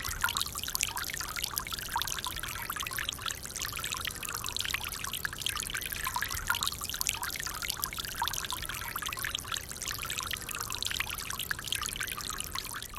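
Solar fountain pump spraying water that splashes back into a bird bath basin: a steady patter and trickle of many small drops.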